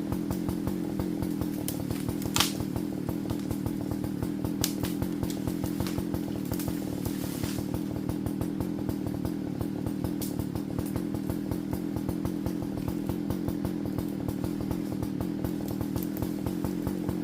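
Partner Farmer two-stroke chainsaw running steadily, with a few sharp clicks, the loudest about two seconds in.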